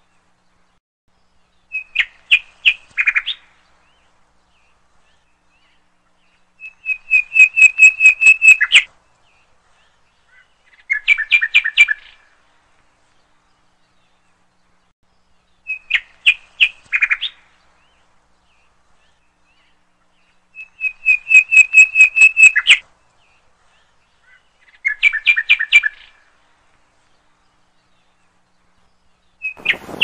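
Bird chirping in six short bouts of rapid, evenly repeated high chirps, with silent pauses between them. The same sequence of bouts comes round again about every fourteen seconds.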